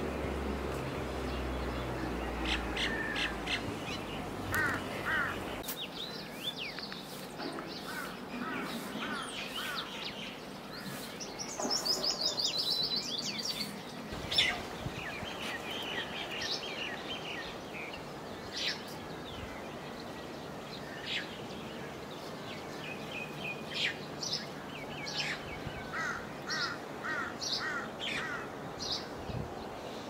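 Several songbirds chirping and calling, in short repeated notes and quick series, with a fast high trill about twelve seconds in. A low rumble sits under the first five seconds or so, then drops away.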